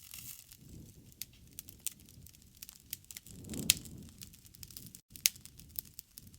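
Campfire burning, with frequent sharp crackles and pops over a low rumble of the flames; a louder pop comes a little past the middle.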